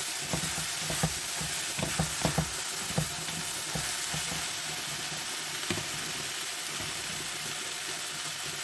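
Diced eggplant sizzling in hot oil in a wok, with a steady frying hiss, as it is stirred with a wooden spatula. The spatula knocks against the pan several times in the first three seconds and once more about six seconds in.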